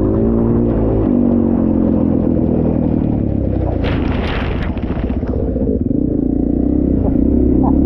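KTM dirt bike engine running on the trail, its pitch holding steady, wavering with the throttle mid-way, then steadying again, with a heavy low rumble underneath. A brief hissing burst comes about four seconds in.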